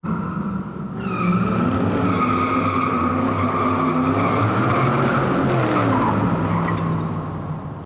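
Car engine running and revving under a long tyre squeal, cutting off suddenly near the end.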